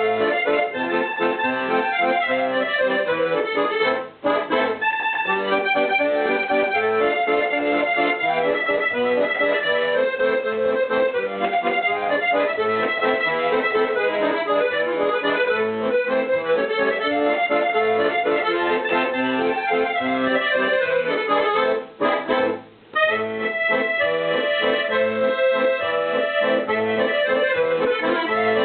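Accordion music, a steady run of chords and melody in a traditional style, with brief breaks about four seconds in and again about twenty-two seconds in.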